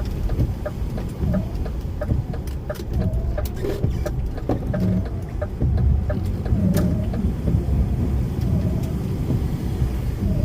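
DAF lorry heard from inside the cab while driving: a steady low engine and road rumble, with a rapid, regular light ticking and short squeaks over it.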